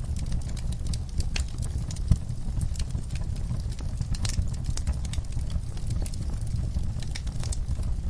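Wood fire crackling in a fireplace: irregular sharp pops and snaps over a steady low rumble, with one louder pop about two seconds in.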